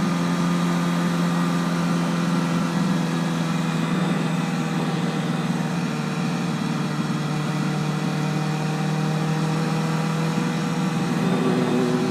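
Honda CBR1000RR's inline-four engine running at a steady cruise, its note holding an almost even pitch.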